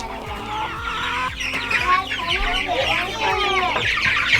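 A flock of young chickens peeping and clucking, many short chirpy calls overlapping and growing louder toward the end.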